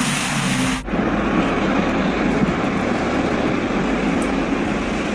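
Steady city traffic noise, with a hard cut about a second in to another stretch of the same kind of noise, a little duller.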